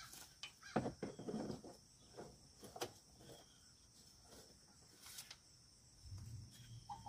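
Faint scattered clicks and knocks of tools and metal parts being handled as a car's brake is taken apart to get at the pads, over a steady high chirring of insects.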